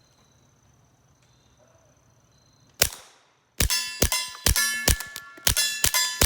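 Suppressed .22 rimfire shots through a SilencerCo Sparrow suppressor: a single shot about three seconds in, then a quick string of shots at about two to three a second. The hits on steel targets ring out after the shots, the ringing about as loud as the muffled gunshots.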